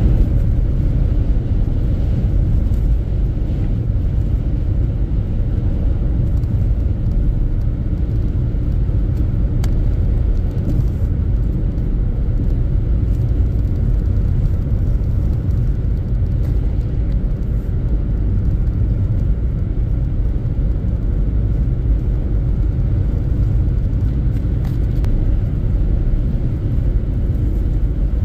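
Steady low road rumble of a car driving at speed, heard from inside the cabin.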